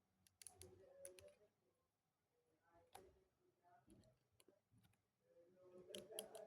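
Faint clicking and rattling of plastic Lego pieces being handled and pressed together, in short clusters about half a second in, around three seconds and near the end.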